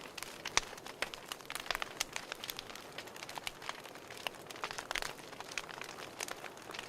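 Wood fire in a fireplace crackling, with many irregular sharp pops and snaps over a soft steady hiss.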